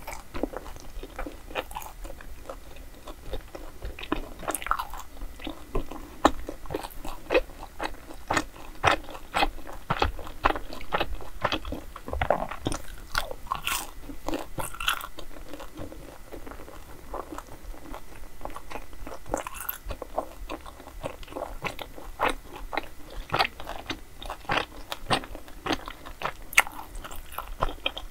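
A person biting and chewing crisp-crusted food close to the microphone, with many small irregular crunching crackles.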